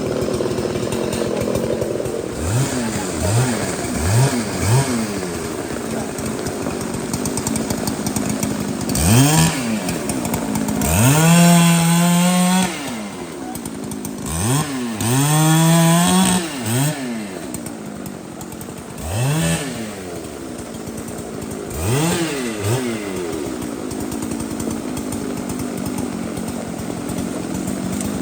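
Two-stroke chainsaw being throttled repeatedly. First come three quick revs, then two longer runs at high revs held for a second or two each, then a few more short revs, with the saw dropping back to a lower running note in between.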